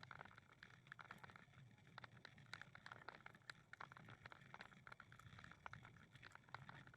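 Quiet outdoor ambience with many light, irregular clicks and taps.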